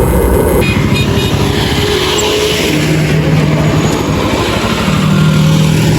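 Motorcycle engine running under way while riding, with wind rumble on the microphone; the engine note steps up and down a few times.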